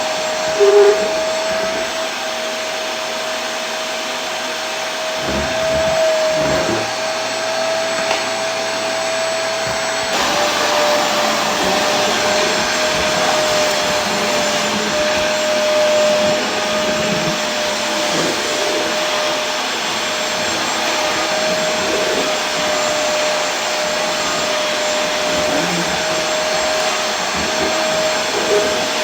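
Vacuum cleaner running steadily: a continuous rushing whoosh with a constant motor hum. About ten seconds in, the hum drops slightly and the rush gets a little brighter. A short, loud blip comes about a second in.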